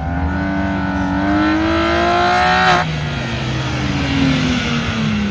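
BMW E46 engine revving hard, its note climbing for almost three seconds, then breaking off sharply as the revs drop and the pitch falls away.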